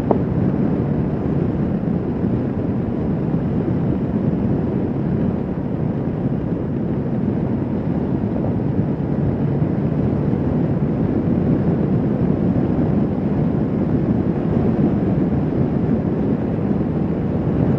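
Kawasaki Vulcan S 650's parallel-twin engine running at a steady cruising speed under the rush of wind over the microphone.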